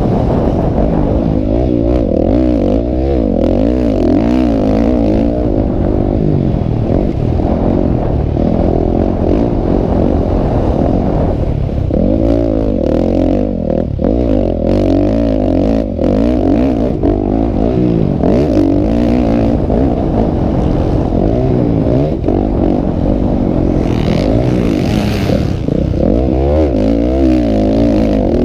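Motocross motorcycle engines racing, several at once, their pitch rising and falling as the riders rev, shift and back off.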